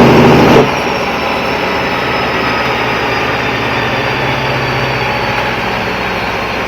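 A heavy diesel engine running steadily, after a brief loud burst right at the start; a faint high whine slowly falls in pitch.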